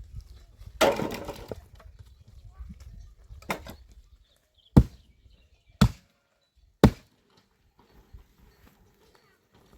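Three sharp, single knocks about a second apart, like blows being struck, after a short rustling burst about a second in.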